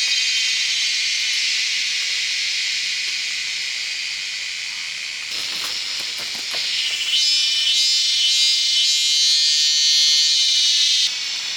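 Loud, steady high-pitched insect chorus, like cicadas buzzing, shifting in pitch a few times. A brief stretch of rustling comes about halfway through, and the chorus cuts off abruptly near the end.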